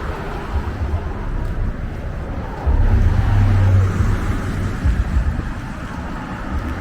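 Street ambience of traffic going by, with an uneven low rumble that swells to its loudest for about a second partway through.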